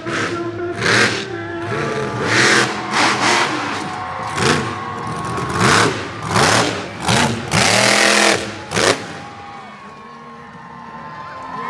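Monster truck engine revving hard in repeated bursts, its pitch sweeping up and down, with arena music playing underneath. The revving stops about nine seconds in.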